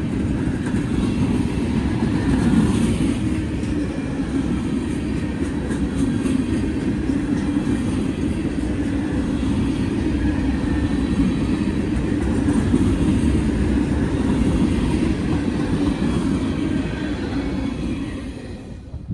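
A freight train rolling past in a steady, loud rumble of wheels and cars on the rails. It eases off slightly near the end.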